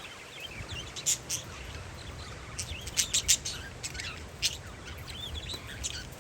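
Parakeets chirping in short, sharp, high calls, in clusters about a second in and again around three seconds in, over a low steady rumble of wind.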